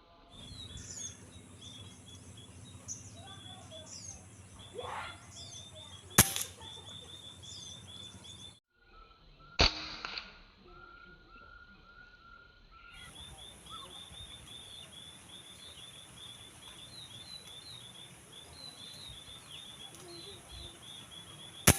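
Three sharp air-rifle shots fired at sparrows, the first about six seconds in, the second near ten seconds and the last near the end, over the steady chirping of a flock of sparrows.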